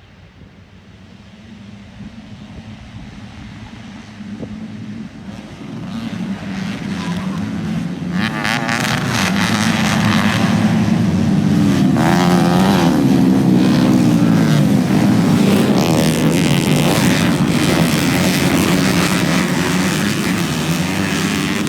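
Motocross bike engines growing louder over the first eight seconds, then running loud with the pitch rising and falling as the riders work the throttle.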